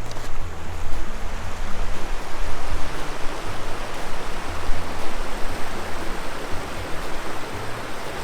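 Rio Grande water rushing steadily.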